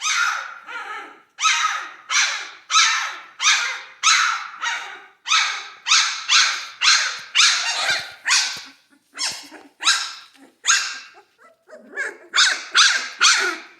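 Central Asian shepherd (Alabai) puppies barking: a steady series of high-pitched barks, about two a second, with a brief lull near the end. The barking is the demanding kind that the owner takes for the puppies wanting food.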